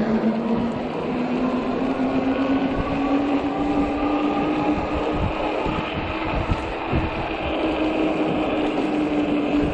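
Ecotric 48 V fat-tire e-bike's hub motor whining under power, its pitch rising slowly over the first few seconds as the bike gathers speed, then holding steady. The fat tires rumble over the snowy road beneath it, with a few bumps near the middle.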